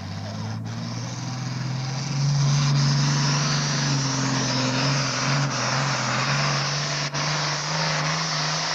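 International 1066 super farm pulling tractor's six-cylinder turbo diesel building up, then opening to full throttle about two seconds in and held there at a loud, steady drone under the load of the sled.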